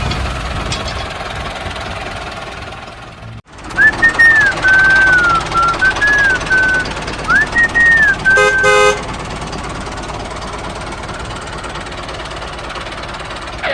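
A single high electronic tone sliding up and down in short phrases, like a toy horn or alarm melody, ending in a brief horn toot, over a steady mechanical hum.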